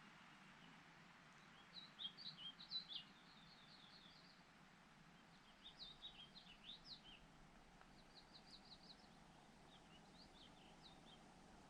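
A songbird singing in four short phrases of quick, high chirping notes, each a second or two long, over a faint steady outdoor hiss.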